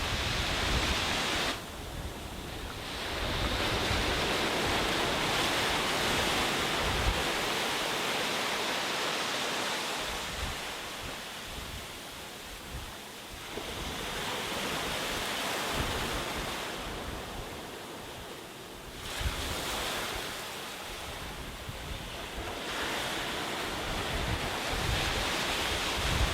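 Sea waves breaking and washing up a beach, the surf swelling and fading in slow surges every few seconds. Wind buffets the microphone with low rumbles, most near the start and end.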